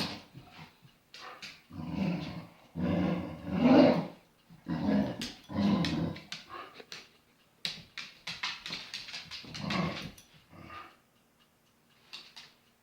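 A dog growling and grumbling in a string of short bursts, with pauses between them.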